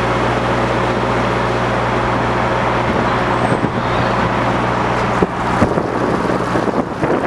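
Narrowboat engine running with a steady hum. About five seconds in there is a knock, after which the engine note drops away.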